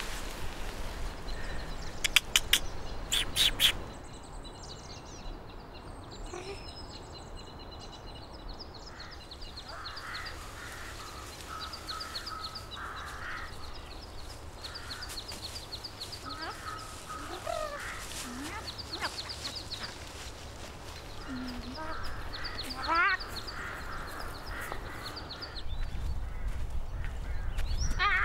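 Birds calling and chirping, with many short repeated high chirps and scattered lower calls, one of them rising in pitch near the end. A handful of sharp clicks sound about two to four seconds in.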